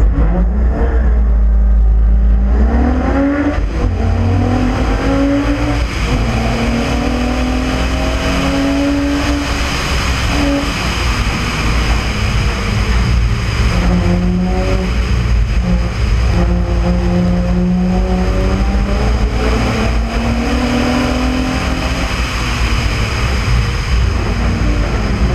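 1981 Ford Capri's engine at full throttle on a hillclimb run, heard from an onboard camera: a heavy low rumble as it pulls away, then the pitch climbing through each gear and dropping back at every shift.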